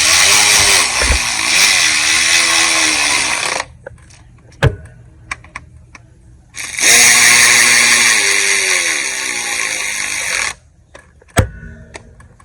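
Handheld power tool run in two bursts of about three and a half seconds each, its motor speed wavering under load, with small handling clicks in the pause between.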